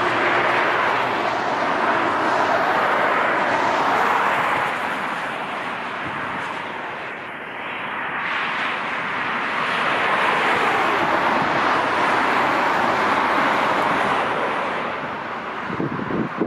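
Jet airliner engine noise, a loud rush that dips around the middle and swells again.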